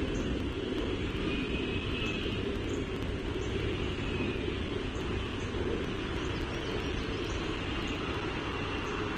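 Steady low rumble of background machinery or traffic noise, with faint short high chirps scattered through it.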